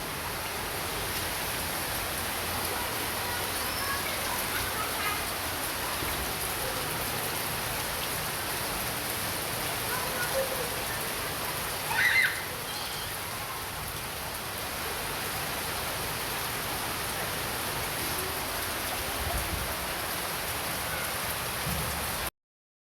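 Steady hiss of rain, with a brief louder, higher-pitched sound about halfway through. The sound cuts off suddenly just before the end.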